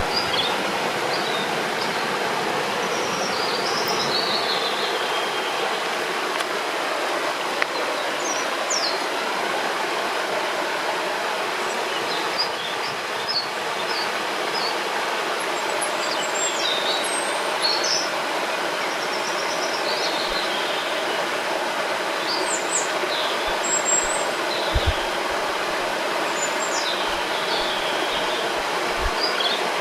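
Steady rushing of a river or small waterfall, with songbirds chirping and whistling on and off above it.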